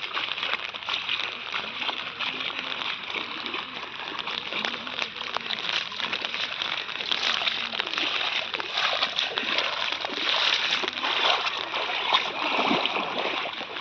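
Floodwater splashing and sloshing continuously, with many small splashes close by.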